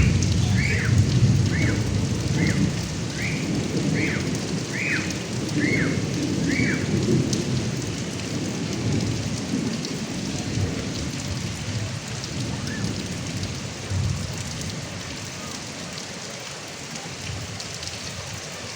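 Heavy rain pouring off a roof gutter spout, with a low rumble of thunder that fades away over the first half. A short, high, falling chirp repeats a little more than once a second for the first seven seconds or so.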